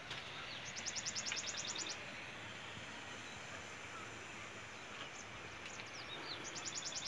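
A small bird calling: a rapid high trill of about ten notes a second, lasting about a second near the start and again near the end, with a few short chirps in between, over faint steady outdoor background noise.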